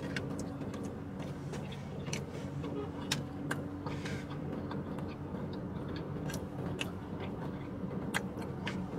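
A man chewing a mouthful of sausage, egg and cheese croissant close to the microphone, with scattered sharp mouth clicks and smacks, over the steady low hum inside a car's cabin.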